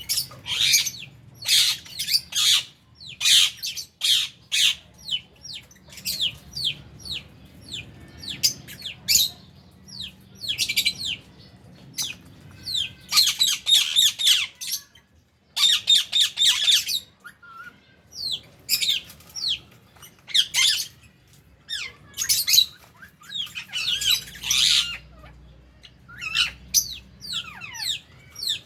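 A flock of lovebirds calling: many sharp, high-pitched squawks and chirps in quick runs, coming in bursts with short pauses between.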